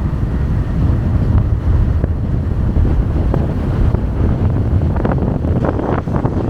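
Wind buffeting the microphone on a moving motorbike: a loud, steady low rumble.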